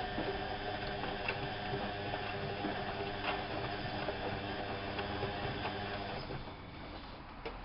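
Whirlpool AWO 5346 washing machine running: a steady motor hum with faint clicks from the turning drum, dying away about six seconds in as the drum stops.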